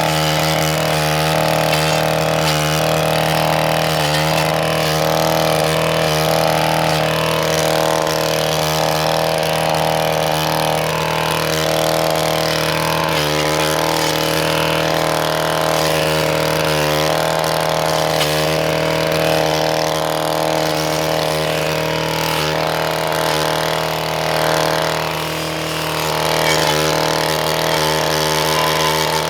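Gas weed whacker running steadily at high speed, its engine pitch wavering slightly as it cuts. It eases off briefly about 25 seconds in.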